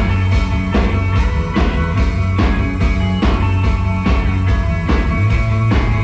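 Rock band playing an instrumental passage: held bass and guitar notes over a steady beat, struck a little more than once a second.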